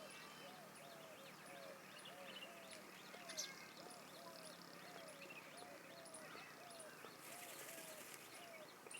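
Faint animal calls repeating steadily, about two or three short arched notes a second, with faint high ticks at an even pace above them.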